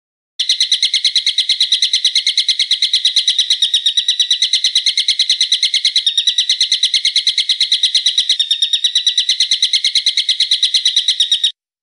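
A songbird's fast, even trill of sharp, high repeated notes, about eight a second, held without a break for some eleven seconds. It is a looped bird-song training recording ('masteran'), and it cuts off abruptly at the end.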